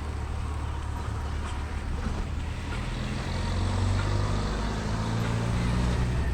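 A large engine running with a low, steady hum that grows louder and climbs slightly in pitch from about three seconds in.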